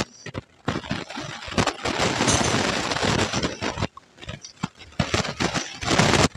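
Close-up crunchy chewing of puffed rice mixed with ghugni, a dense crackling full of sharp clicks, with a spoon clinking and scraping on a steel plate; it pauses briefly around four seconds in and starts again near the end.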